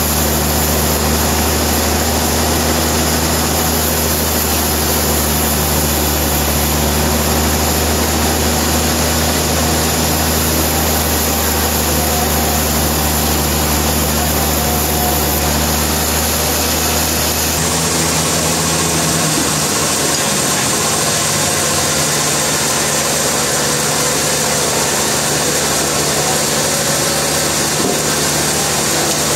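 Sawmill machinery running steadily with a loud, continuous engine-like hum. About two-thirds of the way through, the sound changes and its low hum settles lower.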